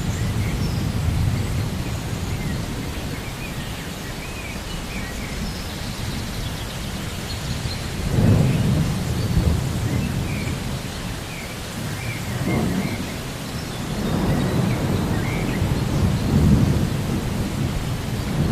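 Thunderstorm ambience: steady rain with low rolling thunder that swells about eight seconds in and again from about twelve seconds on.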